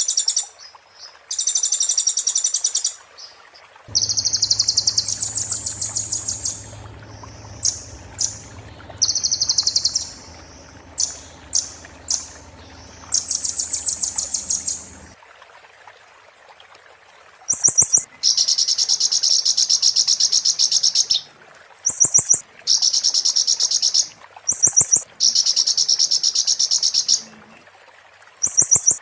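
Olive-backed sunbird (kolibri ninja) singing in high, very fast trills in repeated bursts of one to three seconds, with short sharp single notes between them: the shrill rattling song bird keepers call 'muntah beling'.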